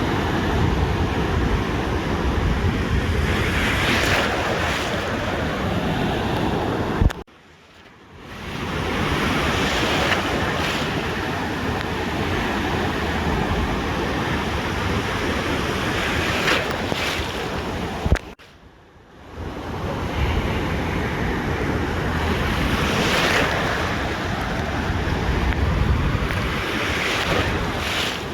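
Ocean surf washing onto a beach, with a wave swelling and breaking every few seconds and wind rumbling on the microphone. The sound cuts out abruptly twice, for about a second each time.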